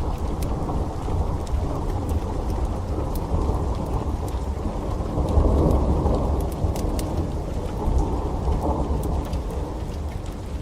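Steady heavy rain with a deep rumble of thunder that swells about halfway through. Sharp scattered crackles of a burning wood fire sound over it.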